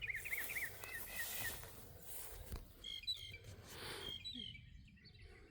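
Songbirds chirping faintly: a quick run of short, repeated chirps in the first second and a half, then scattered higher chirps later on.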